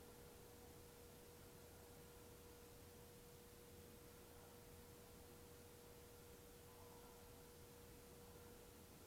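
Near silence: a faint, steady, single-pitched tone over low hiss, unchanging throughout.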